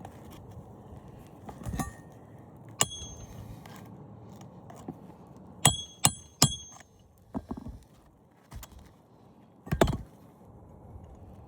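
Hammer driving roofing nails into a new asphalt shingle: sharp, ringing metal strikes, three of them in quick succession about halfway through, with a few duller knocks and a thud near the end.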